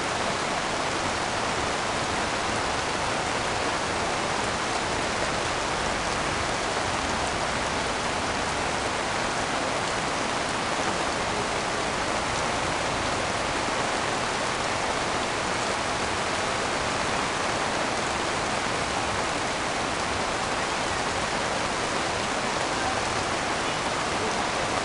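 Heavy rain pouring down steadily, an even unbroken hiss with no let-up.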